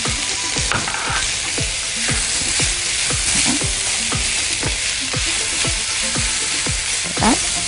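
Chopped vegetables sizzling in hot oil in a ridged grill pan as they are stir-fried with a spatula: a steady frying hiss with many short knocks of the spatula and pan, and one louder scrape near the end.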